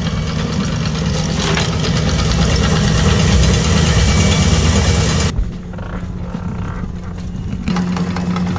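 A sailing yacht's engine idling steadily while the anchor windlass hauls in the anchor chain with a loud rushing clatter, which stops abruptly about five seconds in.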